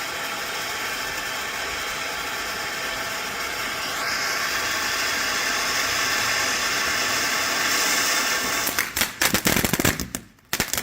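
Cone fountain firework spraying with a steady hiss that grows brighter about four seconds in, then breaking into a rapid series of sharp crackling pops near the end.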